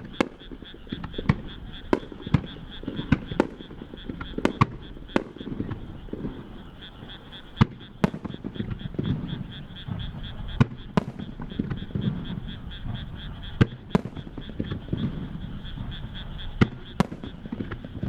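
Starmine fireworks display: a rapid, irregular string of sharp shell bursts over a continuous low rumble. A steady, rapid high chirping runs underneath throughout.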